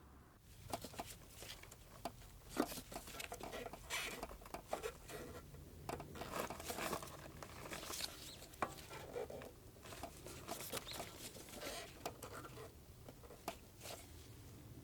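Hand work on small parts: irregular clicks, light taps and scratchy scraping and rustling, with no steady rhythm.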